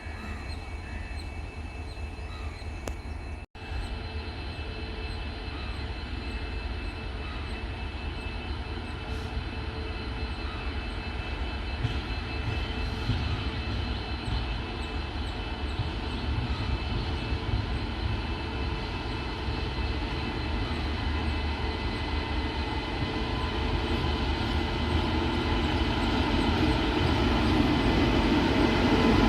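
WAP7 electric locomotive running with a steady hum and high, steady whining tones from its blowers and traction equipment as it starts the train. It grows gradually louder toward the end.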